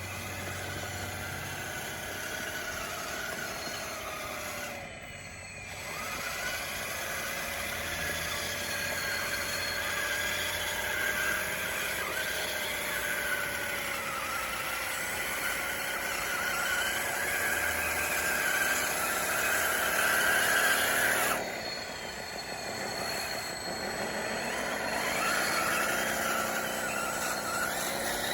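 DXR2 RC bulldozer's electric drive motors and gears whining, the pitch sagging and rising as the load changes while it pushes dirt. The whine drops out briefly about five seconds in and again about two-thirds of the way through, then picks up again.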